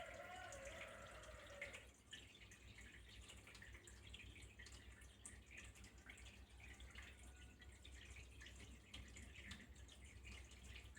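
Faint water trickling and dripping. A brief wavering pitched tone sounds over it in the first two seconds.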